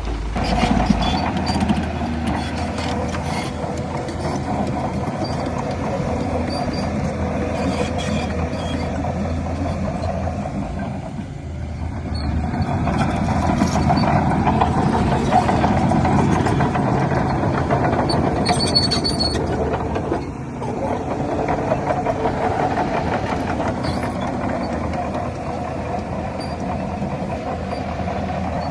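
Diesel engines of heavy earthmoving machinery running steadily, dropping briefly about 11 seconds in and again about 20 seconds in, and louder in between.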